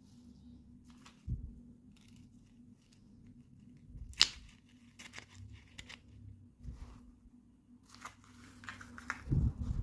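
Toy packaging being handled and opened by hand: scattered small clicks and rustles, one sharp snap about four seconds in, and a busier stretch of crinkling and tearing near the end with a soft thump.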